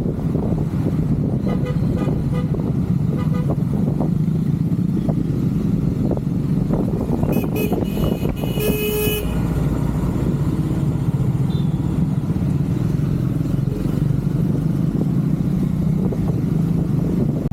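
Triumph Scrambler 400 X's single-cylinder engine running steadily while riding. A vehicle horn honks briefly about halfway through: a few short toots, then one longer one.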